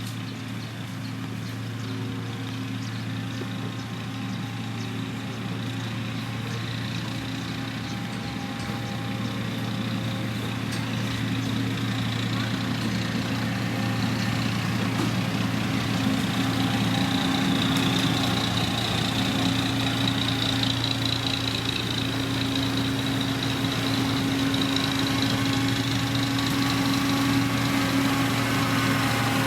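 Diesel engine of heavy road-construction machinery running steadily, growing gradually louder over the stretch.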